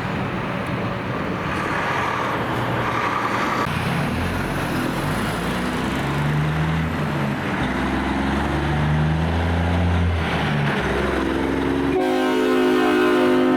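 Heavy diesel truck engine running and pulling up through its gears, its pitch climbing in steps. About twelve seconds in, a loud multi-note train horn starts to blow and holds.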